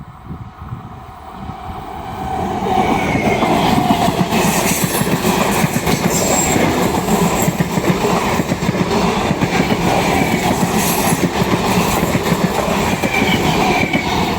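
A train passing close by: a loud rumble and clatter of wheels on the track that builds over the first couple of seconds and then holds steady, with brief faint squeals now and then.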